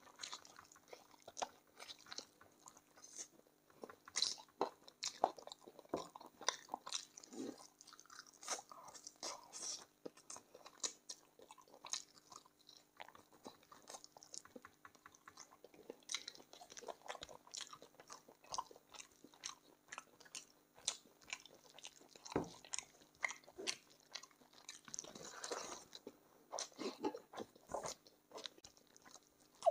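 A person chewing and biting chicken feet: a dense, irregular run of small sharp clicks as they eat.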